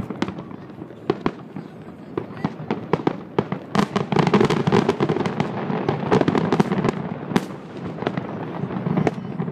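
Aerial fireworks shells bursting over the harbour: scattered bangs at first, then a dense run of rapid bangs and crackling from about four seconds in.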